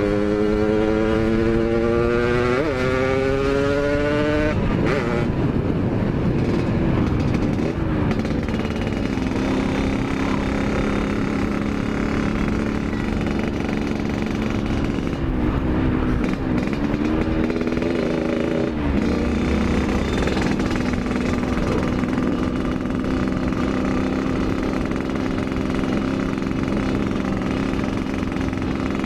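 Yamaha RX-King 135 cc two-stroke single-cylinder motorcycle under way: the engine climbs in pitch as it accelerates for the first four seconds, then holds a steady cruising note, with a brief drop and pick-up in revs around the middle.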